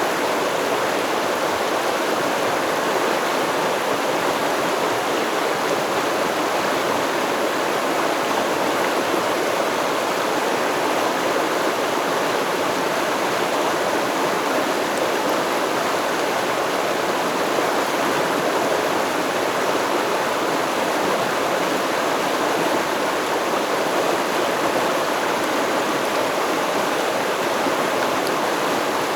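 A river stream flowing over rocks, a steady rushing and babbling of water.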